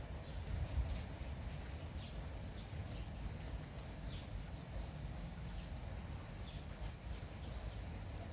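Small birds calling in short, high chirps, one or two a second, over the steady hiss of light drizzle and a low rumble.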